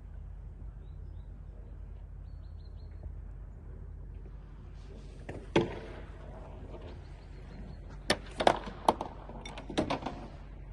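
A few sharp knocks and thuds, one about halfway through and then a quick run of four or five near the end, over a low steady mechanical hum.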